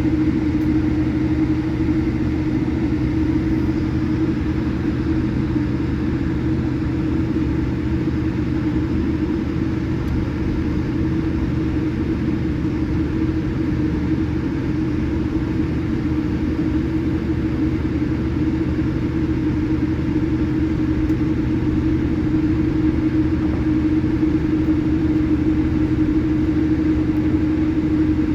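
Steady cabin noise inside a Boeing 787-8 airliner with its engines running: a constant low rumble with one steady hum running through it, unchanging in level or pitch.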